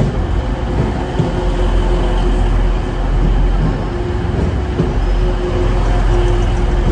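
Diesel passenger train running close by: a loud, steady low rumble with a humming tone that comes and goes.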